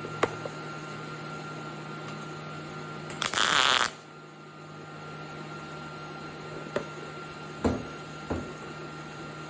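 A single short tack weld crackling for under a second, about three seconds in, joining spoon and fork pieces, with a few light metal clicks and knocks from handling the pieces.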